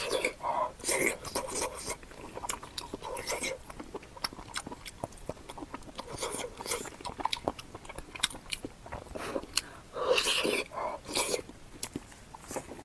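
Close-miked chewing and biting, with many sharp wet mouth clicks and a louder stretch of chewing about ten seconds in.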